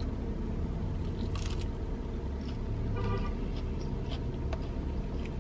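A person biting into and chewing a grilled chicken sandwich with a few faint soft clicks, over a steady low rumble.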